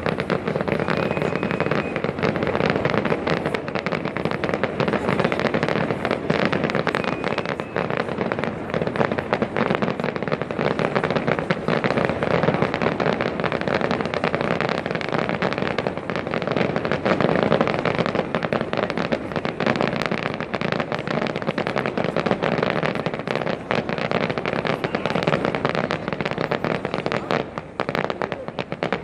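Fireworks display: a dense, unbroken run of crackling bursts and bangs.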